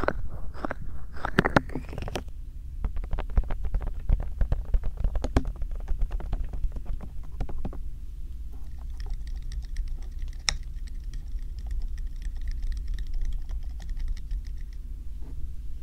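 Bare hands working close to a binaural microphone, making rapid light taps and rubbing and brushing noises with a steady low handling rumble underneath. The tapping is densest in the first half and turns lighter and crisper later.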